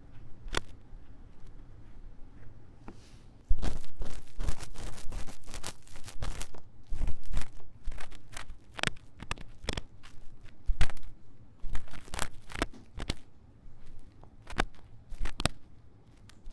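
Ear-cleaning tool scratching fast and hard inside the silicone ear of a 3Dio binaural microphone. A single scratch comes near the start, then dense runs of quick, rough strokes from a few seconds in to near the end.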